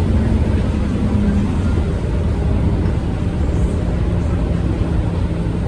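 Scania K230UB city bus's five-cylinder diesel engine running while under way, a steady low drone whose pitch dips slightly about one and a half seconds in and then holds steady.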